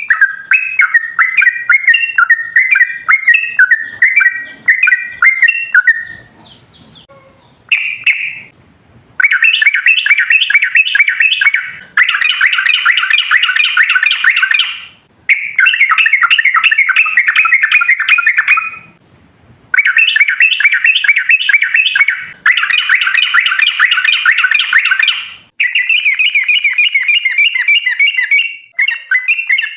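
Yellow-vented bulbul (trucukan) song: rapid, bubbly chattering phrases repeated in bouts of a few seconds with short pauses between them. A higher, thinner layer of notes joins in near the end.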